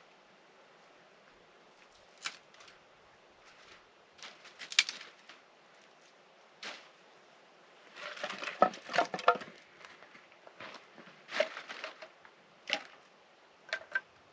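Camp cookware and utensils being handled: scattered clicks and knocks, with a burst of ringing metallic clinks in the middle.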